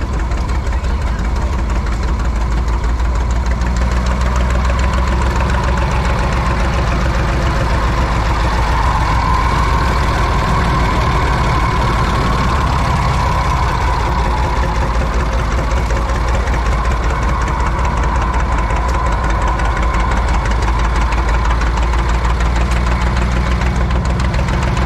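Vintage stationary engine running steadily at a loud, even pace with a low rumble.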